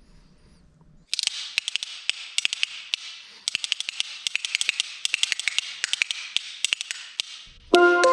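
A pair of spoons played as a percussion instrument, clacked together in a fast, rhythmic run of bright metallic clicks starting about a second in. Near the end a ringing, pitched instrument comes in.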